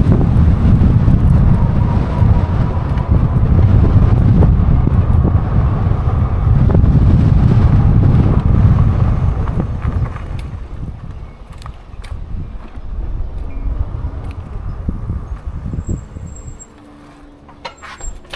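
Wind buffeting the microphone on a moving e-bike, a loud low rumble that dies away about halfway through as the ride slows. A quieter stretch with scattered clicks and knocks follows.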